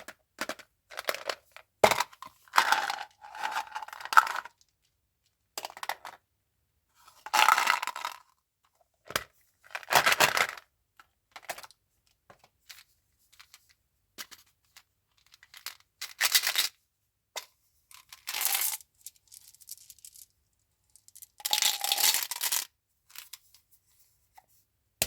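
Candy and chewing-gum packaging being opened by hand: paper and plastic wrappers tearing and crinkling in short spells with silence between, and small clicks and taps as boxes and pieces are handled.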